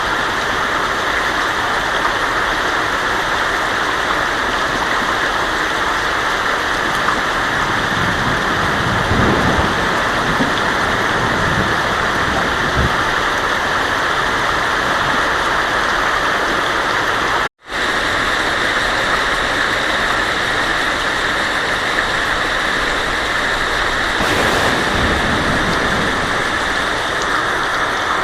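Heavy rain drumming steadily on a tin roof, with low rolls of thunder rumbling under it twice. The sound cuts out for an instant just past halfway.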